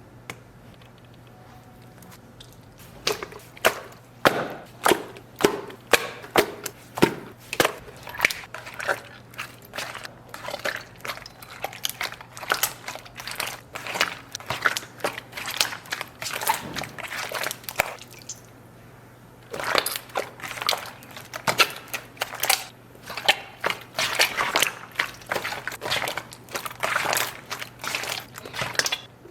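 Thick, creamy slime being pressed and squeezed by hand, giving a dense run of sticky crackling clicks and pops, several a second. It begins about three seconds in and stops briefly near the middle.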